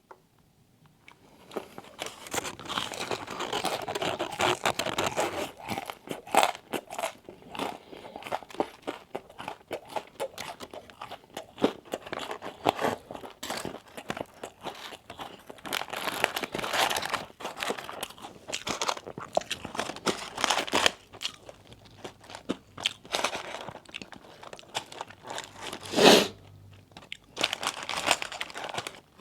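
Close-miked eating of crispy fried chicken wings: irregular crunching bites and chewing, with one louder crunch near the end.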